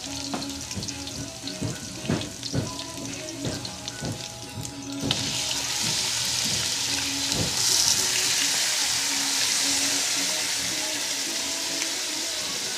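Vegetables sizzling in hot oil in a wok, with a run of knocks and scrapes. About five seconds in, raw chicken pieces are tipped into the wok and a much louder, steady sizzle takes over.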